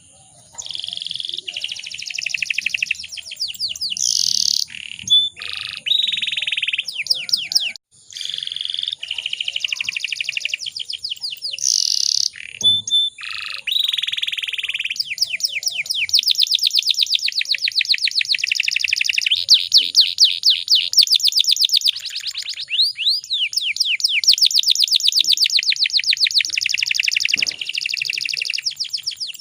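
Domestic canary singing: long phrases of rapid, high-pitched trills and rolls, one after another with brief breaks.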